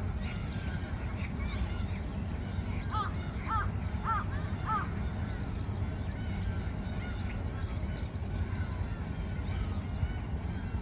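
A flock of gulls calling, many short overlapping calls, with four louder calls in quick succession about three to five seconds in, over a steady low rumble.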